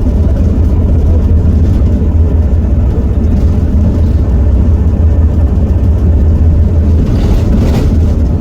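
Heuliez GX327 city bus's Iveco Cursor 8 six-cylinder diesel running steadily with a deep, even hum.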